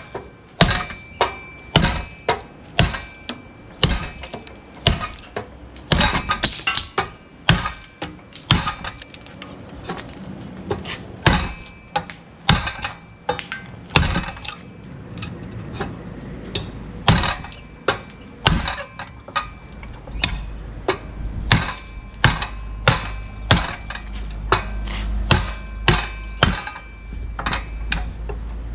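A Bowie knife with a 52100 steel edge chopping repeatedly into a wooden 2x4 in an edge-retention test: a long run of sharp chopping strikes, about one to two a second. A low steady hum comes up in the second half.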